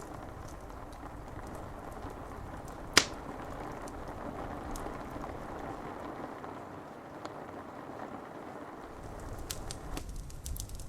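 Steady rain hiss against window glass with a wood fire crackling, one loud sharp pop about three seconds in. Near the end the hiss drops away, leaving scattered small ticks and crackles.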